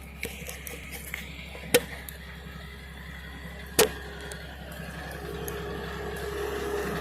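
Heavy machinery engine running steady, with two sharp knocks a couple of seconds apart; about five seconds in the engine note rises and grows louder as it takes on load.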